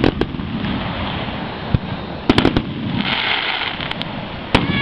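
Fireworks shells bursting overhead in a large display, a series of sharp bangs: one at the start, one before the middle, a quick run of several around the middle and one near the end.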